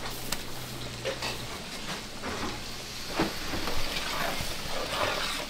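Food sizzling as it fries in hot oil: a steady hiss, with a few light knocks of cookware.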